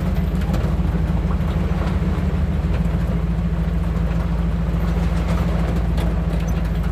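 A truck's engine and road noise heard from inside the cab while driving on a bumpy road: a steady low drone with a few small knocks and rattles.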